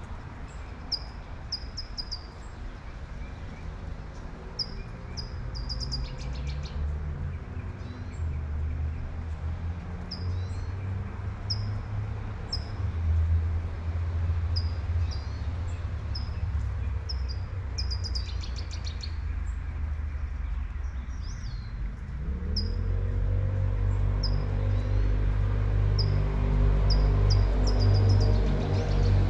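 A bird calling with short, high chirps, about one a second, with two brief faster trills, over the hiss of light rain and the low rumble of street traffic. Later on a passing vehicle's engine rises in pitch and the rumble grows louder.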